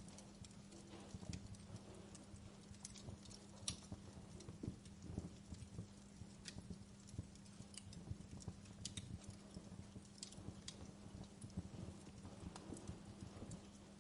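Wood fire in a fireplace crackling, with irregular sharp pops and snaps scattered throughout, over a low steady hum.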